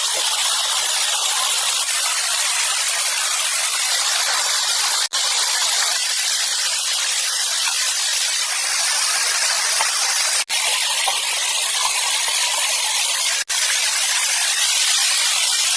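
Steady rushing water noise, a dense even hiss with no deep rumble. It cuts out for an instant three times, about 5, 10½ and 13½ seconds in.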